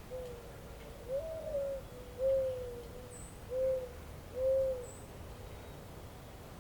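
A bird's low hooting call: a short hoot, a longer higher note that rises, then three evenly spaced hoots, over a faint steady outdoor hiss.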